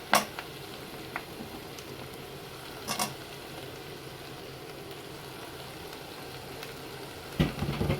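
Food sizzling steadily as it fries in a pan, with a few sharp clicks and knocks of a utensil against the pan: one just after the start, one around three seconds in, and a louder cluster near the end.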